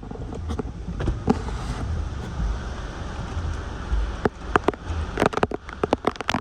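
Hurricane wind gusting, rumbling heavily on the microphone, with a spatter of sharp taps from rain or debris striking that becomes dense about four seconds in.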